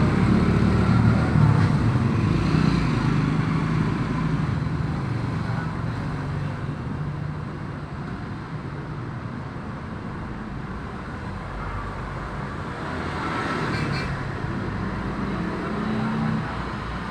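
Road traffic: a motor vehicle's engine is loud at first and fades away over the first several seconds. Steady street traffic noise follows, swelling again near the end.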